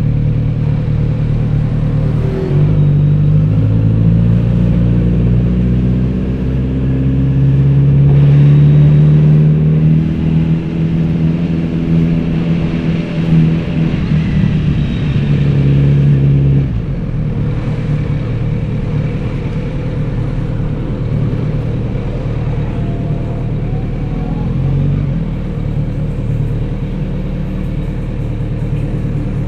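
Kawasaki Z900RS's inline-four engine and exhaust under way, rising in pitch as it accelerates for several seconds, then holding. About halfway through the throttle is rolled off and the note falls to a lower, steadier run.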